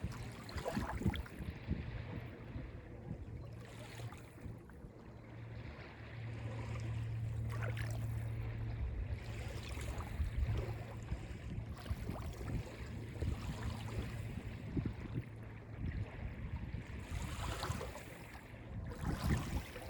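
Small freshwater waves lapping and washing on the sand and pebble shore of Lake Ontario, a soft splash every few seconds over a low steady rumble.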